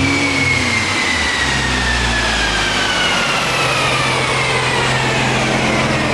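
Porsche 997 911 Turbo's twin-turbo flat-six running, with a whine that falls slowly and steadily in pitch as it winds down over a constant rush of mechanical noise.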